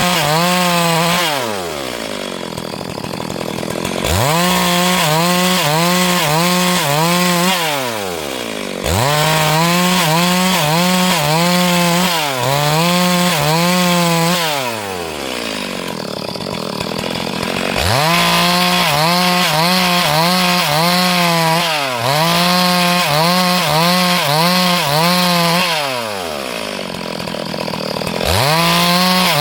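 Two-stroke chainsaw ripping a log lengthwise into planks, held at full throttle for cuts of several seconds with its pitch wavering under load, then falling back toward idle and revving up again, several times.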